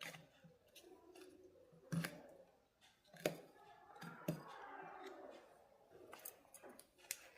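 Small tools and parts being handled in a small room: a handful of sharp clicks and knocks, with a short scraping, rustling stretch about four to five seconds in.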